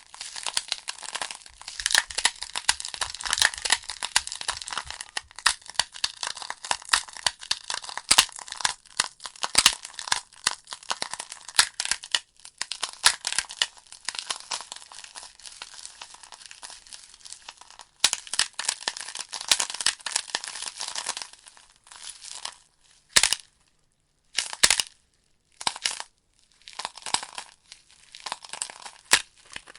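Wood fire in a fireplace crackling and popping, with a dense run of sharp snaps from the burning logs. After about twenty seconds the crackling thins to a few isolated pops with short near-silent gaps, then picks up again near the end.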